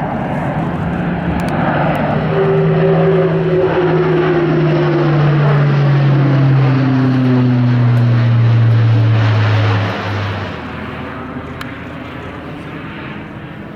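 Airbus A400M Atlas's four turboprop engines and propellers droning loudly in a low pass. Their tones fall in pitch as the aircraft goes by, and the sound drops away after about ten seconds as it moves off.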